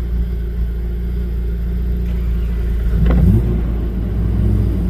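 Off-road 4x4's engine running steadily with a low rumble while driving, with a brief sharp knock about three seconds in.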